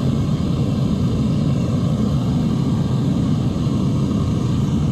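Devil Forge gas melting furnace burning at full heat, a steady, even low roar with no change.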